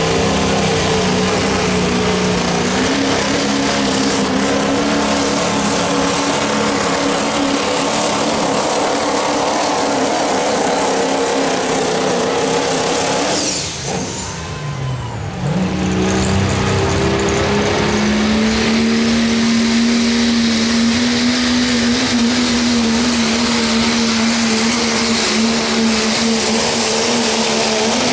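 A diesel pickup's engine running hard at high revs while pulling a sled, steady and loud. About halfway through it drops off briefly, the pitch falling and then climbing back up as it comes on load again.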